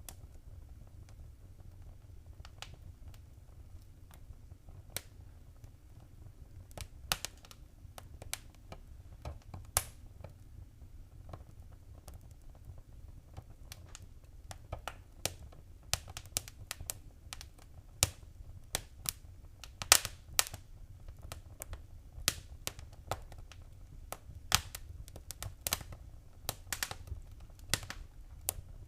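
Wood fire in a fireplace crackling, with sharp pops and snaps that are sparse at first and come thicker from about halfway, over a steady low rumble.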